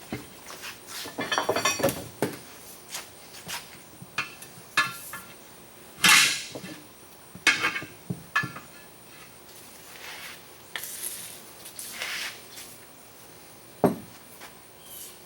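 Irregular metallic clanks and knocks, some ringing briefly, as of tools and metal parts being handled. There is a cluster of them early, the loudest about six seconds in, and a sharp knock near the end.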